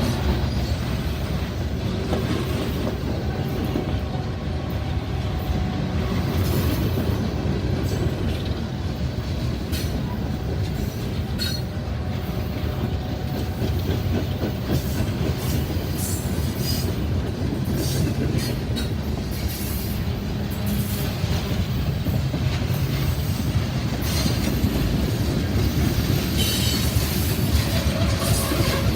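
A freight train rolling past: a steady low rumble of the cars, with wheels clicking over the rail joints and scattered short squeaks and clicks from the wheels.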